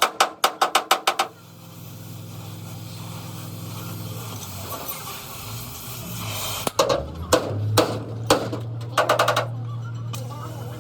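Hammering on metal: a quick run of sharp blows, about eight a second, that stops after about a second. A steady low hum follows, with a few more scattered knocks and another short, fast run of blows near the end.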